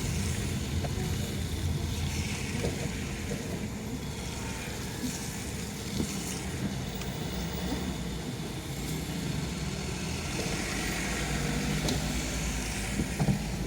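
Steady low hum of a car being driven, with hiss from tyres on the wet road swelling and fading several times.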